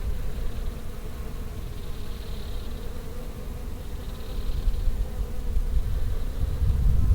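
Bees buzzing steadily, over a low rumble that grows louder near the end.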